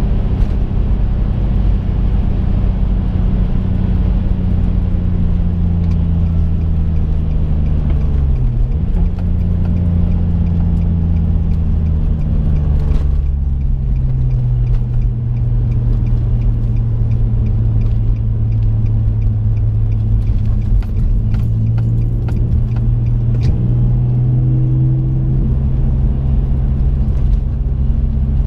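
Twin-turbocharged 2005 Infiniti G35's V6 engine droning inside the cabin while cruising, with road noise. Its pitch dips sharply and recovers about eight seconds in, then settles lower from about thirteen seconds in.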